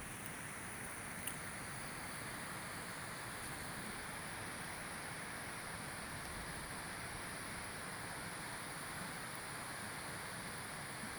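Campfire burning with a steady hiss and a few sharp pops from the wood, the clearest about a second in.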